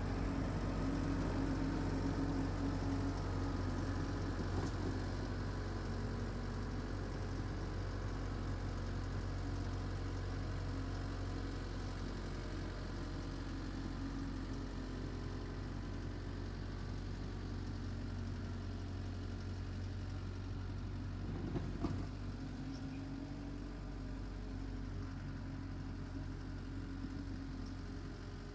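Tractor engine running steadily while driving a power rake through the soil, with one brief knock about three-quarters of the way in.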